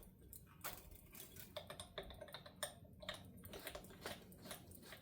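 Faint, irregular small clicks and ticks from a guitar's tuning peg being turned to tighten the high E string.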